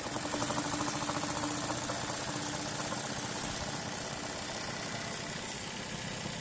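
Jensen 20-S model steam engine running steadily, turning its small generator at a fast even beat; most of the noise is the generator's whirr, with the engine itself nice and quiet. A steady hum under it fades out about four seconds in.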